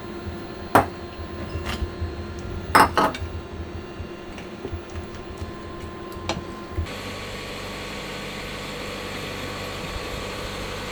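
Glasses and utensils clinking and knocking while a cocktail is made. There are a few sharp strikes in the first three seconds and another at about six seconds, then a steady hiss takes over.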